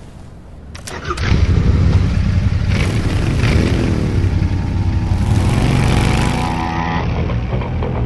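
Royal Enfield Bear 650's parallel-twin engine revving and running loud, coming in suddenly about a second in, with the pitch rising and falling around the middle.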